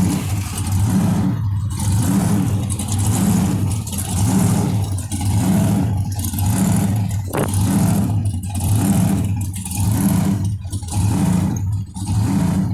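Hot rod engine heard from inside the car while cruising slowly, running with a strong low rumble that rises and falls in a steady rhythm.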